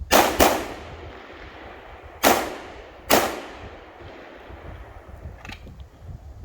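Rifle shots fired on an IPSC rifle stage: two shots in quick succession, then two more about two and three seconds in, each with a trailing echo. A fainter crack follows about five and a half seconds in.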